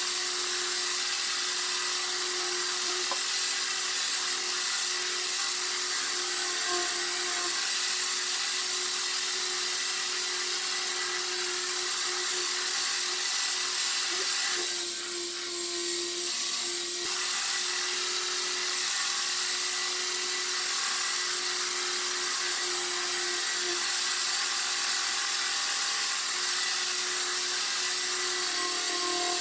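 Power sander running steadily against a car's body panel, with a steady hum under a broad hiss. The sound changes briefly about halfway through.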